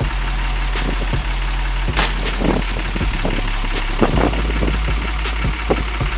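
Tow truck's engine running steadily, with scattered short knocks and clicks over it.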